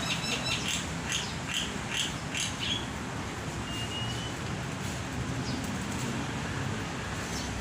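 Caged bird chirping: a quick run of short high notes over the first few seconds, then a single short whistle.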